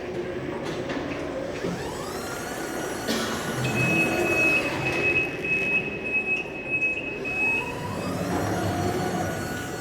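Electric reach truck's motor whining up in pitch, holding a steady high whine for several seconds, then winding back down.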